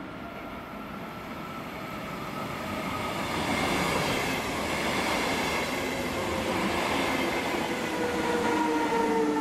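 SBB Zurich S-Bahn double-deck electric train running past at close range: steady rolling noise of wheels on rail with an electric whine that falls slightly in pitch. It grows louder as the coaches draw level, and a lower whine swells near the end.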